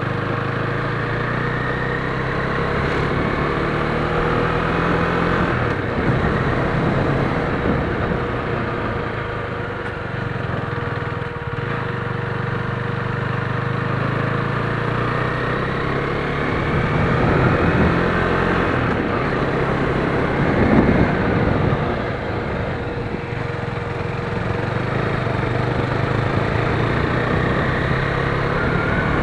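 KTM Duke 390's single-cylinder engine and exhaust running under way, the engine note rising and falling with the throttle.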